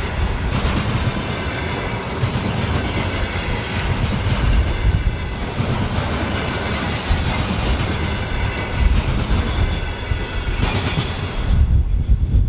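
Freight cars of a long freight train rolling past, with wheel clatter and faint wheel squeal. About a second before the end, the high rattle cuts off sharply as the last cars go by, leaving a low rumble.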